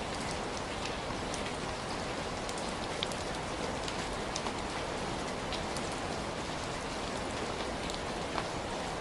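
Heavy rain falling steadily, a constant hiss with scattered sharp patters of individual drops hitting a surface.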